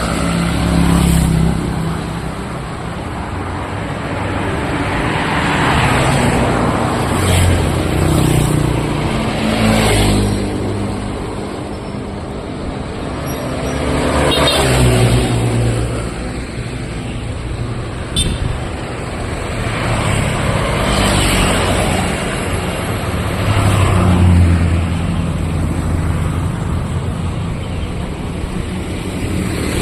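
Street traffic: motorbikes and cars passing one after another, each swelling and fading over a few seconds.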